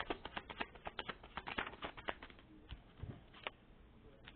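Rapid, irregular clicks and taps of tarot cards being handled and shuffled, thick for the first two seconds or so, then thinning to a few scattered taps.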